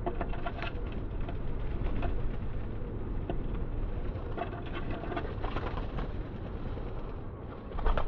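A house sparrow at a clear plastic window feeder, with scattered light ticks as it feeds and a wing flutter as it takes off near the end. A pigeon coos in the background over a steady low rumble.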